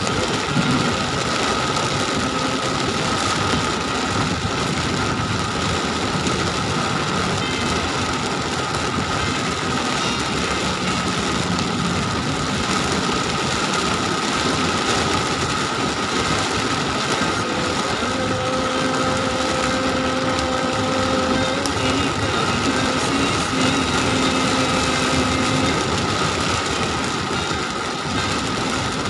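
Heavy rain falling on a car's roof and windscreen, heard from inside the moving car as a dense, steady hiss, with the car running underneath it.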